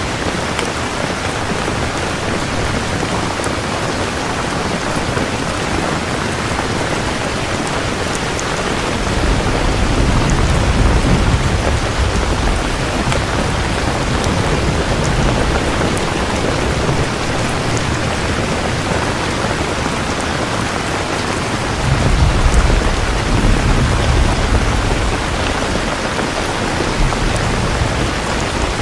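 Heavy, steady rain falling, with two long rolls of distant thunder, the first about a third of the way in and the second about three-quarters through.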